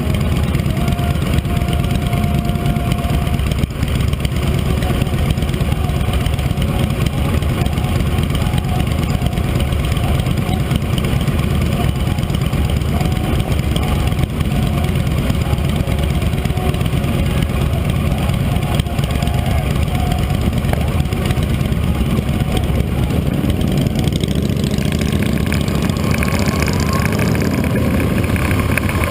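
Motorcycle engine running steadily at low speed, a continuous low rumble without pauses.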